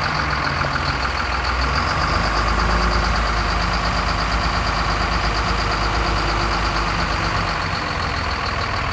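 Sterling dump truck's diesel engine idling steadily.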